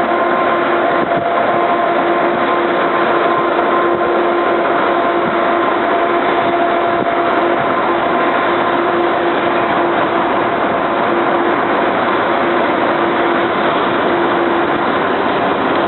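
Parked train's diesel locomotive idling: a steady running noise with a constant hum.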